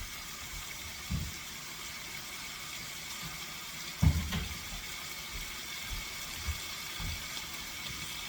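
Tomatoes and garlic sizzling in a sauté pan, a steady hiss, with a few low knocks of kitchen handling. The loudest knock comes about four seconds in.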